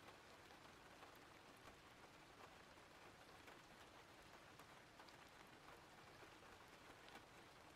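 Faint, steady rain, a soft even hiss with scattered light drop ticks.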